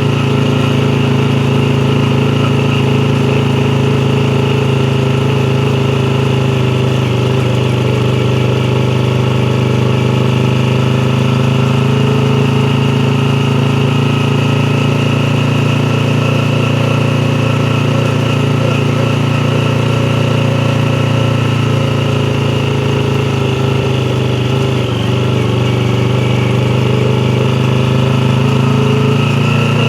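Yamaha YZF-R3's parallel-twin engine running steadily at nearly constant revs, its pitch dipping slightly a couple of times.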